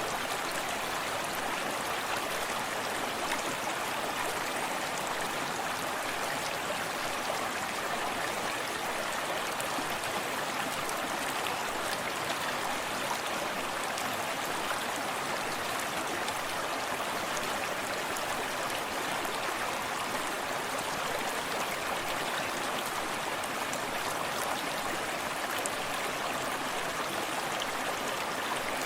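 Small forest stream flowing steadily over rocks, a continuous rushing with fine splashing and gurgling.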